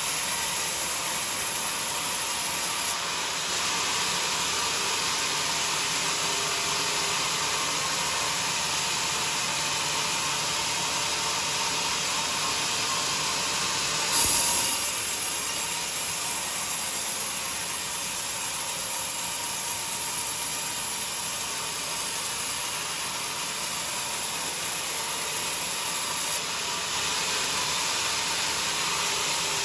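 Homemade sawmill running and sawing through a joar log: a steady, loud, noisy rush of the blade in the wood, with one brief knock about fourteen seconds in.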